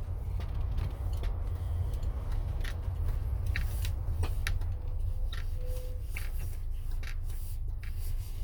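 Steady low road and engine rumble of a moving motorhome heard from inside, with scattered light clicks and rattles throughout.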